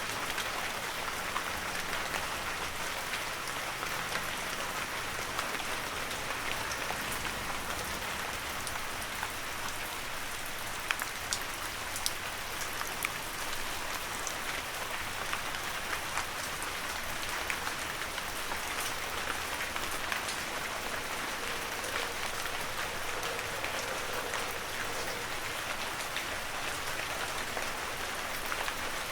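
Heavy rain falling steadily, an even hiss of rain with individual drops pattering and ticking through it, a few sharper drop hits around the middle.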